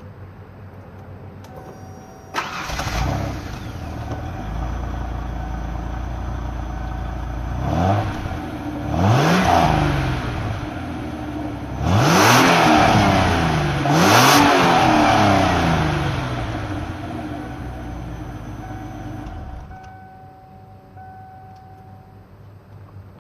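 A 1992 Ford Tempo GLS's stock 3.0-litre V6 through its factory exhaust, starting about two seconds in and then idling. It is revved four times, each rising and falling back, with the last two revs the highest and loudest. It settles back to idle and stops near the end.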